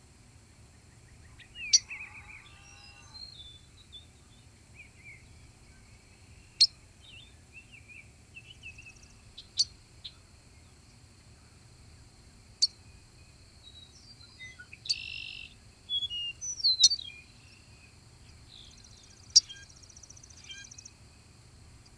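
A songbird giving short, sharp high notes about every three seconds, with other birds chirping and warbling more faintly in between.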